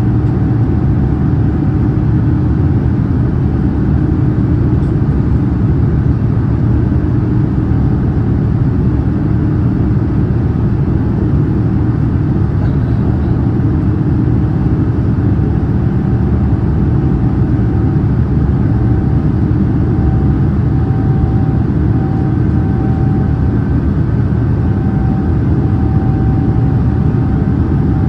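Steady drone of a Boeing 787-9 airliner heard from inside the passenger cabin: engine and air noise with a few faint steady tones, unchanging throughout.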